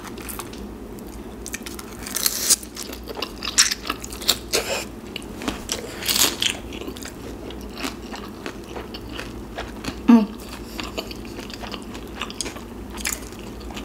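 Close-miked chewing of a pan-fried pork and vegetable dumpling, wet mouth sounds broken by crunchy bites into its browned crust. The crunches come at irregular moments, heaviest about two seconds in and again around six seconds. One brief louder sound about ten seconds in.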